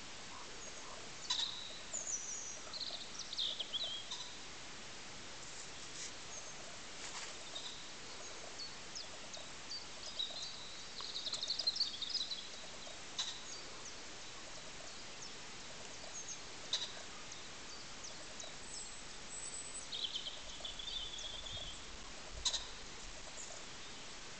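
Birds chirping and calling in short high phrases over a steady outdoor background hiss, with a longer warbling call about halfway through and a few brief clicks.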